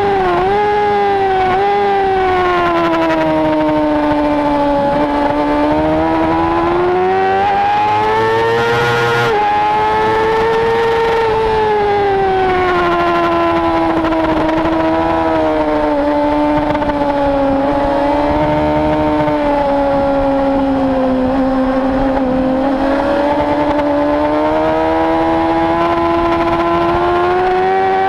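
Race motorcycle engine at high revs, recorded on board, over steady wind rush. The note dips sharply twice in the first two seconds as the bike brakes hard from top speed and shifts down, sags and climbs again, then drops suddenly about nine seconds in at an upshift. After that it sinks slowly through a long corner and rises again near the end as the bike accelerates.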